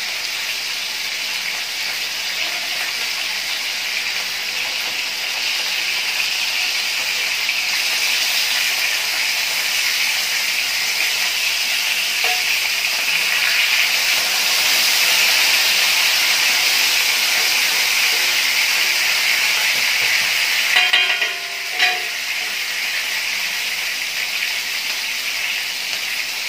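Chapli kababs frying in oil on a flat griddle: a steady sizzle that grows a little louder about halfway through. A little past twenty seconds in, a few sharp clicks of metal spatulas on the pan cut in briefly.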